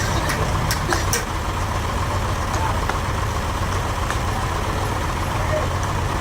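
An engine running steadily at idle with a low hum, with a few sharp clicks or knocks in the first second or so.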